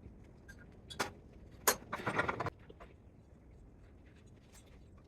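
Handling noise from taking apart a spot welder: a sharp knock about a second in, another shortly after, then a brief rattling scrape.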